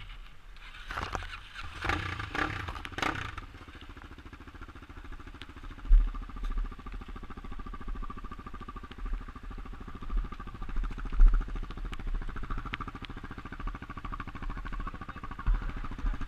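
Motorcycle engine running at a steady speed, with a short spell of clattering in the first few seconds and scattered low thumps.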